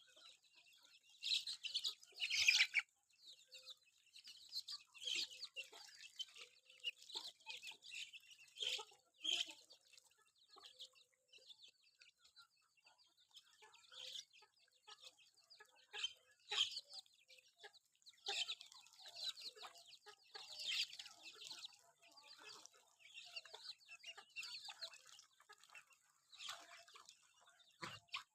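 Free-range village chickens clucking, with many short calls scattered irregularly and a louder cluster about two seconds in.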